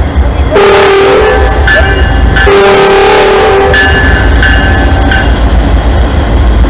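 Freight locomotive's multi-chime air horn sounding two long blasts in a chord over the deep rumble of the passing train.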